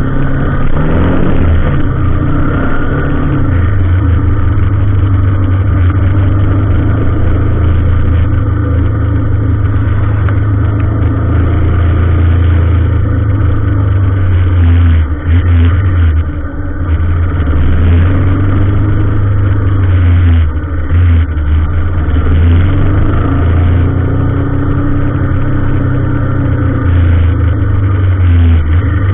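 A motor vehicle engine running loudly and steadily, its pitch rising over the first few seconds and then holding.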